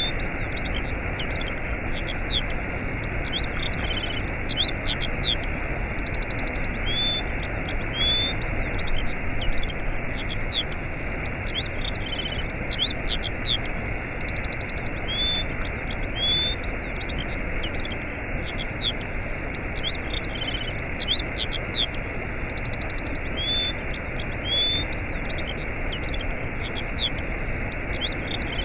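Steady rushing of a waterfall with small birds chirping and whistling over it, quick high calls that recur in the same sequence about every eight seconds.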